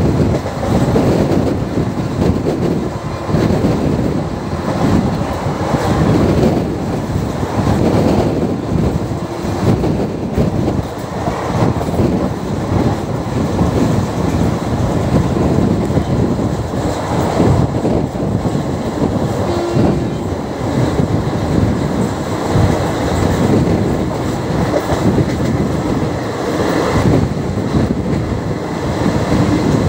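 Passenger train coach running at speed, heard from its open doorway: a loud, steady rumble of the running gear with the wheels clattering over the rails.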